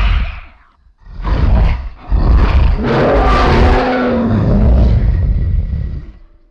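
Roar sound effect of a monster or large beast: two short roars, then one long rough roar of about four seconds that fades out near the end.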